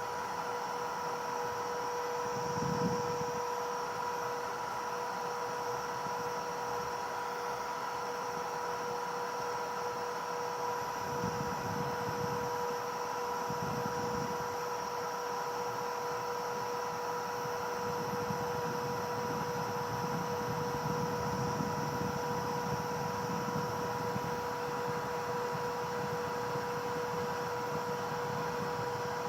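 A steady electrical or mechanical hum at one constant pitch over an even hiss, with a few faint low rumbles.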